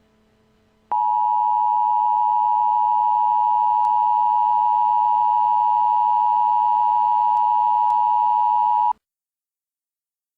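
Emergency Alert System attention signal: a loud, steady electronic alert tone that starts abruptly about a second in, holds unchanged for about eight seconds and cuts off suddenly.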